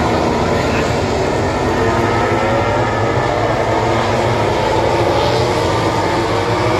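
Several engines running together in a loud, unbroken din, their pitches sliding up and down over a low rumble.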